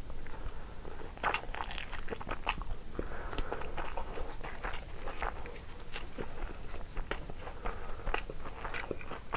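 Close-up eating sounds: chewing and biting, with many irregular sharp crunches and mouth clicks.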